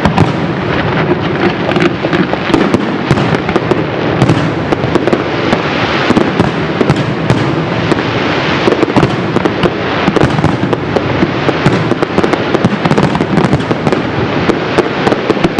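Fireworks display: a dense, continuous run of shell bursts and crackling, with many sharp bangs close together.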